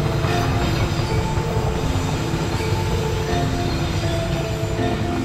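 Passenger train's coaches rolling past on the track, a steady heavy rumble.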